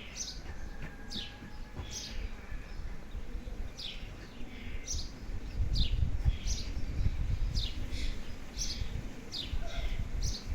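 A bird chirping in the background: short notes that fall in pitch, repeated about once a second. Under it is a low rumbling noise that gets louder about halfway through.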